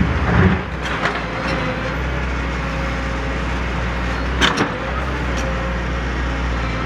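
Heavy machinery engine running steadily, with a few knocks and clanks: one about half a second in, one at about a second, and a louder one at about four and a half seconds.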